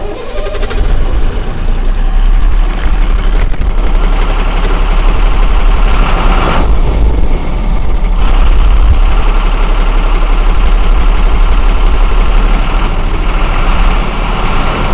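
A loud engine running steadily, with a deep rumble and a faint high whine, easing briefly about halfway through.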